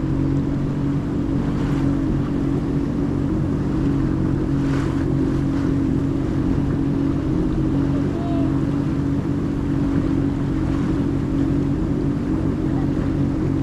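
Jet ski engine running at a steady pitch, with water noise around it.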